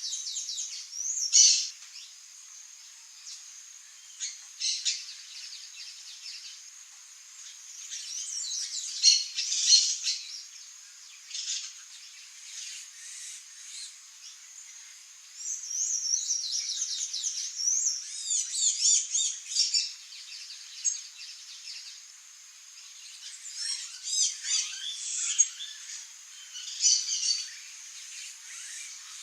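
Small songbirds calling: single sharp, high chirps with several busier runs of rapid twittering chirps between them.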